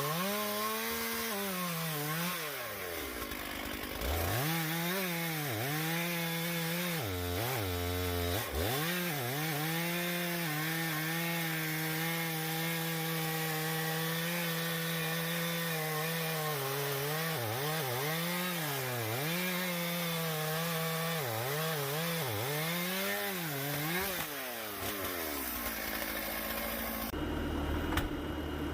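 Chainsaw cutting through oak at full throttle, its engine pitch repeatedly dipping and recovering as the chain bogs under load in the wood. Near the end the engine note falls away.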